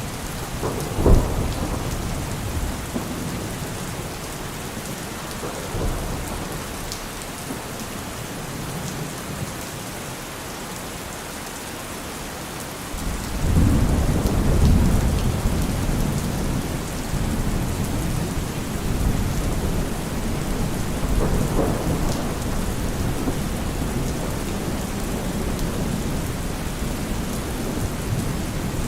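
Steady rain falling on trees, with thunder: a sharp crack about a second in, then a long low rumble that swells up about halfway through and rolls on, with another smaller swell later.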